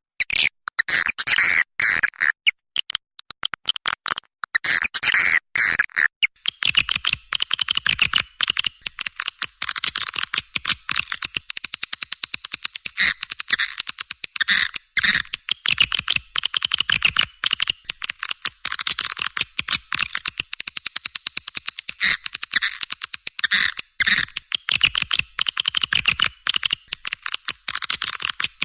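Swiftlet lure call: a dense, rapid stream of high chirps and twitters, with brief gaps, made to draw swiftlets into a nesting house.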